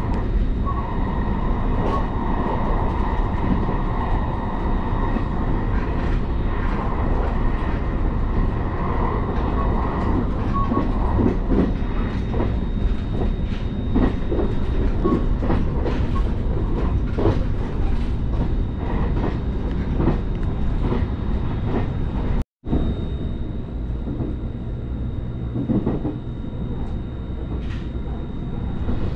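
Interior running noise of a JR Kyushu 885 series electric limited express at speed: a steady low rumble with light clickety-clack from the rails. A steady high whine sits over it for the first ten seconds or so. The sound cuts out for an instant about three-quarters of the way through.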